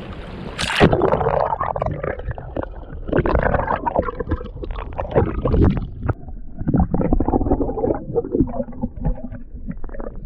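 Water splashing and gurgling around a kayak paddled back toward shore, with irregular knocks against the hull.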